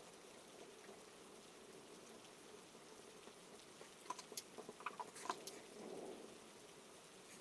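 Soft, steady rain, with a short cluster of sharper drip-like ticks and plinks about halfway through.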